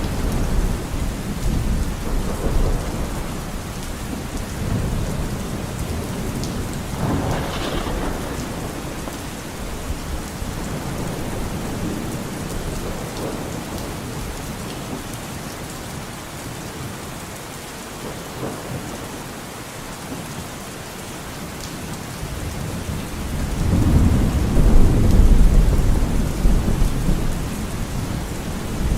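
Steady rain falling, with thunder rumbling low; a long rumble of thunder swells up near the end and is the loudest part.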